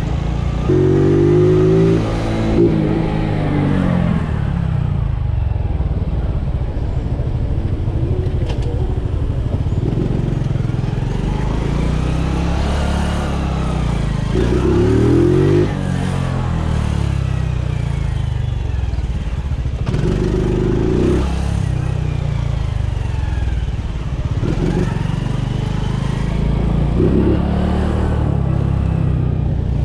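Honda Biz's small single-cylinder four-stroke engine running on the move. Its note rises and falls in pitch several times as the rider speeds up and eases off.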